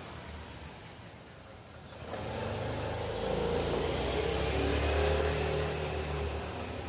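A motor vehicle passing by. Its engine and tyre noise swell from about two seconds in, peak midway and fade toward the end.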